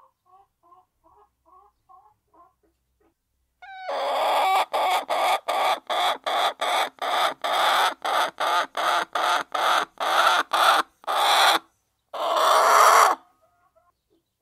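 Hens clucking softly, then about four seconds in a hen breaks into loud, rapid repeated cackling, about three calls a second, ending in one longer drawn-out call.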